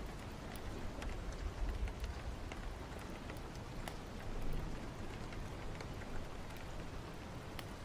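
Steady rain falling, with scattered sharp ticks and a low rumble underneath.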